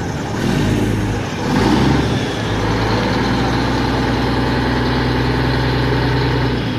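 Diesel engine of a 1996 Mack CH613 truck just after starting, revved briefly twice and then settling into a steady idle.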